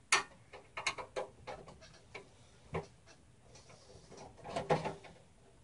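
Thumb screws being turned and handled on the steel panel of a Cooler Master Elite 130 mini-ITX computer case: scattered small metallic clicks and ticks.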